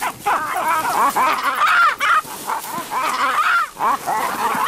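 Olive baboons giving many overlapping high calls, one after another, with a brief lull a little before the end.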